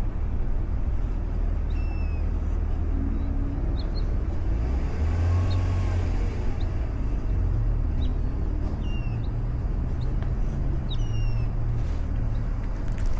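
Outdoor ambience with a steady low rumble and a vehicle passing by, swelling and fading about halfway through. A few short, high, falling chirps sound over it.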